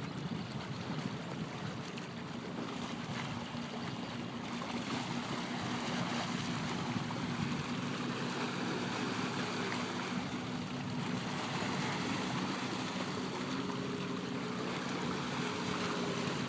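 Stand-up jet ski engine running at a steady pitch over a hiss of water and wind, getting a little louder after about five seconds.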